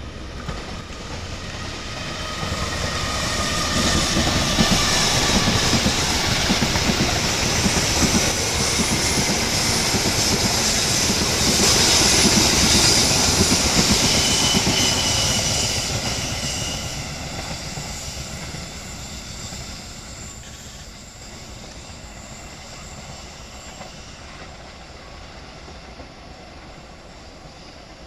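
A diesel-hauled passenger train passing close by: the rumble of the locomotive and the wheels clattering on the rails builds over a few seconds, stays loud for about twelve seconds, then fades away. High-pitched wheel squeal comes through from the curving track, strongest near the end of the loud part.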